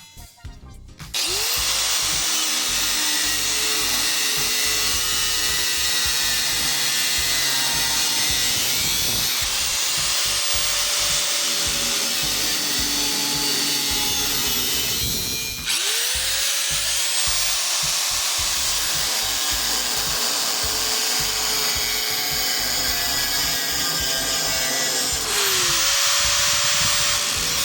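Electric power tool running loud, cutting, its motor pitch rising up to full speed several times, the first about a second in.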